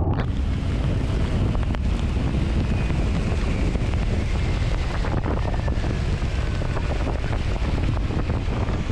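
Wind rumbling on the microphone over steady road noise of a vehicle travelling in rain, with an even hiss of rain and spray.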